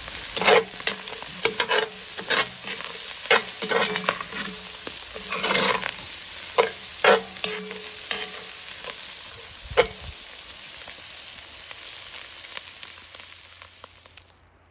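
Ground beef, onions and green peppers sautéing in a cast iron Dutch oven, with a steady sizzle. A utensil scrapes and knocks against the iron at irregular moments as the food is stirred. The sizzle fades toward the end.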